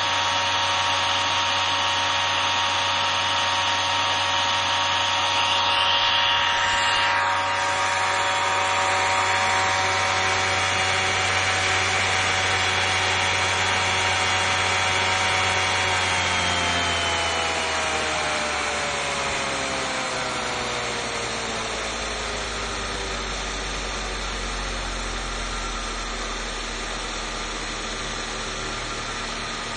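Bosch 120A car alternator converted to a brushless motor and driven by a hobby ESC, spinning with a steady electric whine. About halfway through, the pitch slides down as the motor slows, then holds at a lower speed.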